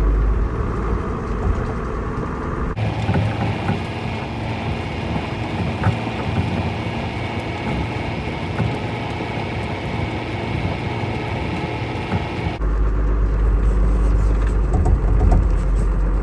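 Tractor engine running steadily while driving. It changes abruptly twice, about three seconds in and near the end, from a deep rumble to a thinner, hissier engine sound and back.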